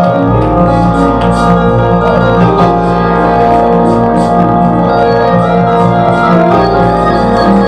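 Organ playing held chords with a sustained low bass note, which stops about six and a half seconds in.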